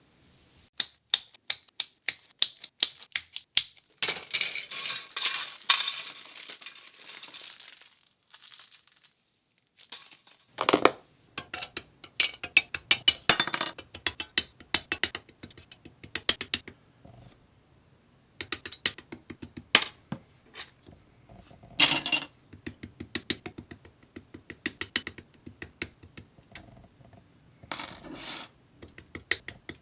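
Small hard plastic model-kit parts clicking and clattering as they are handled and set down, in irregular bursts of sharp clicks. A stretch of rustling comes about four seconds in.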